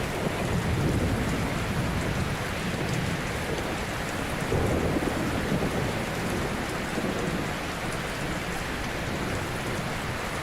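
Ocean waves breaking gently on a shore: a steady wash of surf with a low rumble that swells twice, about a second in and again about halfway through.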